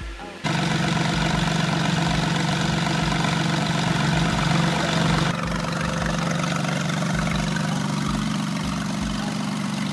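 Gemballa Avalanche 650 Evo's engine running at a steady note with a strong low hum, starting abruptly about half a second in and dropping a little in level about five seconds in.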